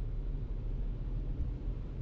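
Steady low rumble of a car being driven: road, engine and wind noise with nothing standing out.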